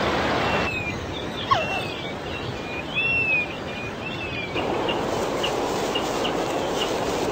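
Bird calls: short chirps and curved whistled notes, one sliding steeply down in pitch, over a steady rushing outdoor noise that drops away for a few seconds in the middle and then returns with a few fainter chirps.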